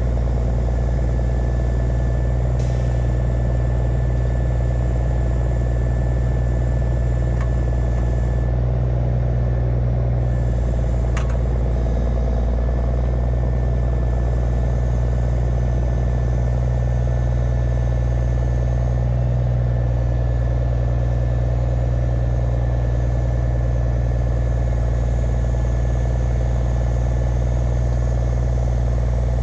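Heavy engine running steadily at an even speed, with a faint steady high-pitched whine above it.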